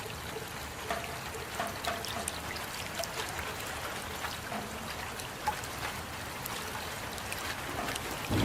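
Rain falling steadily, with water trickling and many separate drops ticking and plinking.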